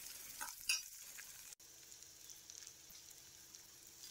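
Shallots frying in oil in a stainless-steel kadai: a faint sizzle, with a few scrapes of a slotted spatula stirring them in the first second or so.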